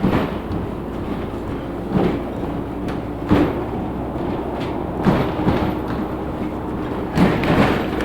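Inside a moving LiAZ 6213.65 articulated city bus: a steady engine and road hum, with the body jolting and rattling over bumps about seven times.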